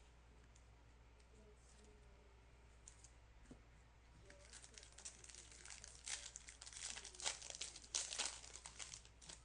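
A trading-card pack wrapper being torn open and crinkled by hand. The crackling starts about halfway through and gets louder toward the end.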